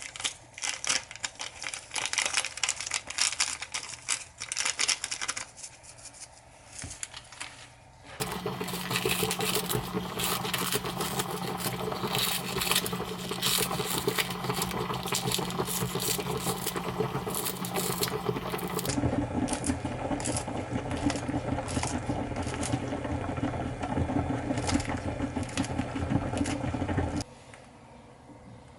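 Kitchen cooking sounds in a few edited takes: first a run of sharp clicks and taps, then dense crackling like food sizzling in a pan over a steady low hum, which stops suddenly near the end.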